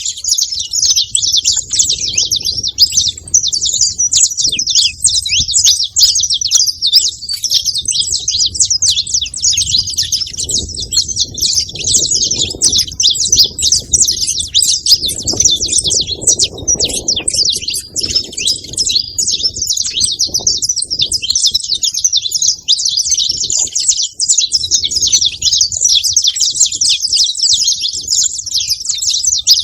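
Saffron finch singing a continuous, fast stream of high chirps and trills without a break, over a soft low background rumble.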